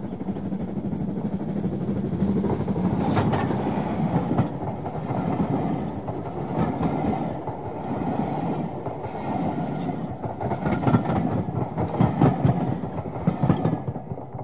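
A train running past, its wheels clattering over the rail joints in a steady rumble, with the clatter growing louder and more rhythmic near the end.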